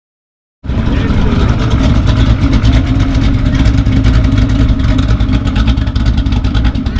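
Hennessey HPE700 twin-turbo Corvette C7 Stingray's 6.2-litre V8 running loud and steady with a deep, rapid pulsing exhaust rumble, starting abruptly after a brief silence.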